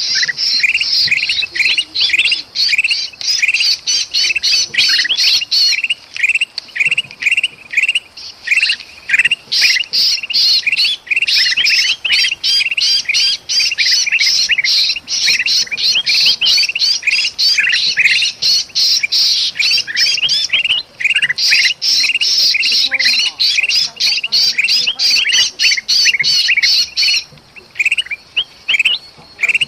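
Bulbuls (kutilang) in a frantic, nonstop chatter of rapid, harsh squawking notes, thinning out briefly near the end. These are agitated alarm calls mixed with the distress cries of a trapped bulbul, the kind of commotion used to lure birds in.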